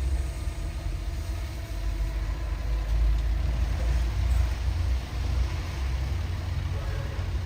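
Diesel engine of heavy earthmoving machinery running with a steady low rumble.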